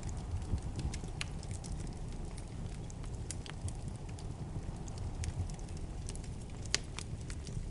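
Wood fire burning in a fireplace: irregular crackles and pops over a steady low rumble, with one sharper pop near the end.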